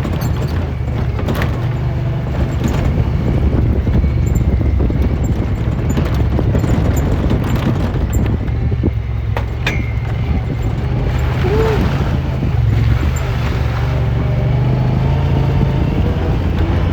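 Side-by-side UTV running under way, a steady low engine drone with ride noise and a few short knocks.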